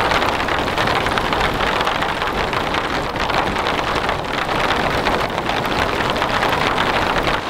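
Heavy rain falling steadily, a dense hiss of drops striking a camping tarp.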